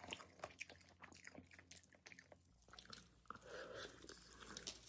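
Faint chewing and biting of roast chicken: irregular small clicks and crunches of a mouth eating.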